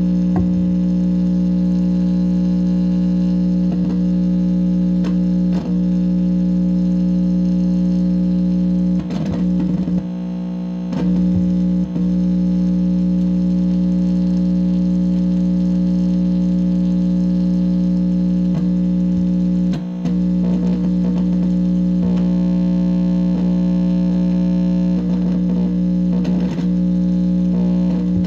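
Amplifier speaker giving out a steady, loud electrical buzz: a fixed low hum with several overtones above it, broken here and there by crackles and clicks. The buzz dips briefly about ten seconds in and again around twenty seconds.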